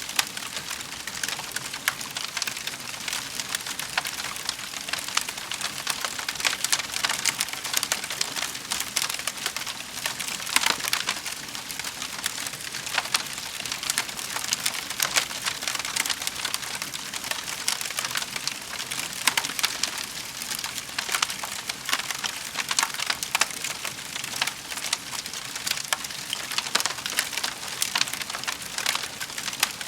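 Wood fire crackling in a fireplace: a dense, continuous stream of small pops and snaps over a soft hiss.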